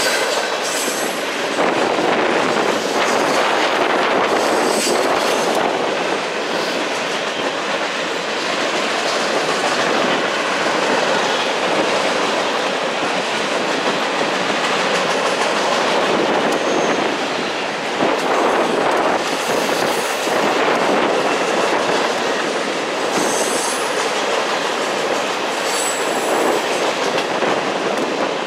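Freight train cars rolling past on curved track: a steady rumble and clatter of steel wheels on rail, with short high-pitched wheel squeals several times as the wheels grind through the curve.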